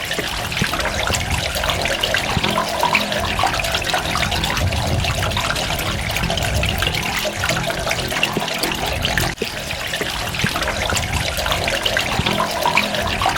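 Running water splashing and trickling steadily, thick with small droplet splashes, with a brief dip in level about nine seconds in.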